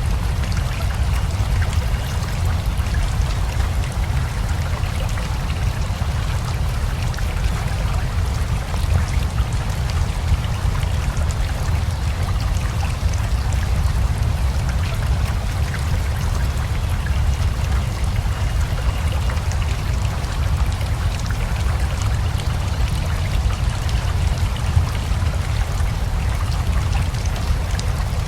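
Steady rain together with a flowing river: an unbroken watery hiss over a deep low rumble, speckled with the ticks of individual drops.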